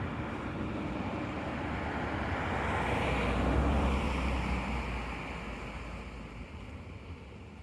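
A motor vehicle passing on the road, its tyre and engine noise rising to a peak about halfway through and then fading away.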